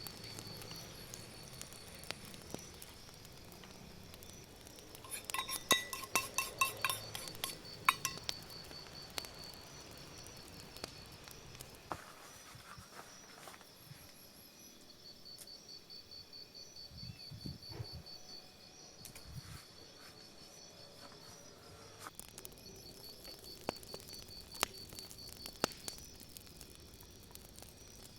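Insects trilling in a steady, high, pulsing chirp, with a quick run of sharp clinks and taps about five to eight seconds in and a few lighter clicks later on.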